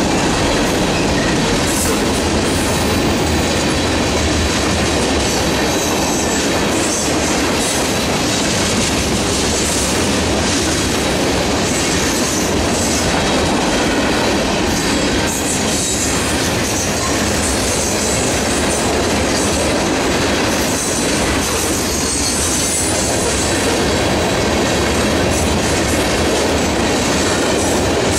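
Freight train cars rolling past, a steady loud rumble and rattle of steel wheels on the rails.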